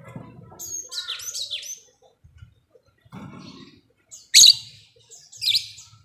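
Lovebirds giving shrill, rapidly sweeping chirps. There is a chattering cluster about a second in, then two sharp, loud calls near the end.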